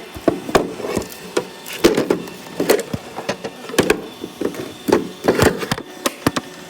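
Robot vacuum clattering as it cleans: irregular sharp wooden-sounding clacks and knocks, about one or two a second, over a faint steady hum.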